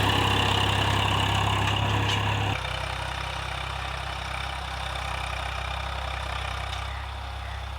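Swaraj 735FE tractor's three-cylinder diesel engine running steadily, dropping to a quieter, lower sound about two and a half seconds in.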